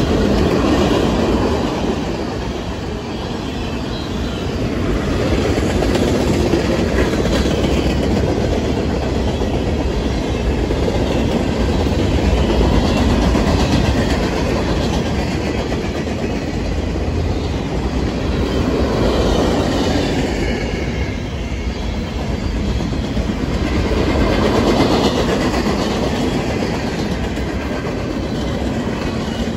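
Freight train of boxcars, tank cars and centerbeam flatcars rolling past on the track: a steady rumble of wheels on rail, swelling and easing every several seconds as the cars go by.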